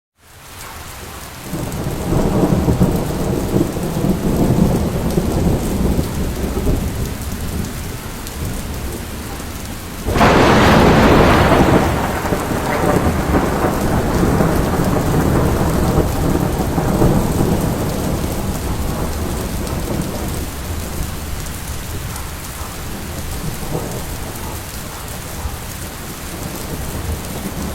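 Rain falling steadily with thunder: a low rumble in the first seconds, then a sudden loud thunderclap about ten seconds in that rolls away over several seconds.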